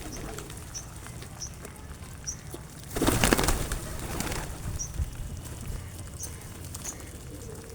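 Pigeons flapping their wings, a loud rush of wingbeats about three seconds in that lasts over a second, as birds take off or land. Short high chirps from small birds come and go.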